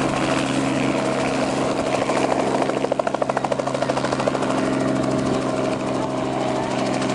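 Helicopter's engine and rotor running steadily with a whine, a rapid blade chop coming through for a couple of seconds in the middle.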